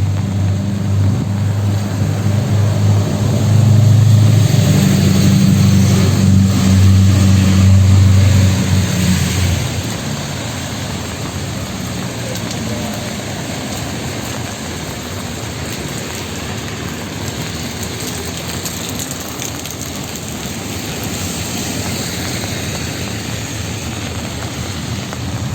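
A motor vehicle's engine running close by, a loud low hum for about the first nine seconds before it drops away. A steady hiss of rain and street traffic runs underneath.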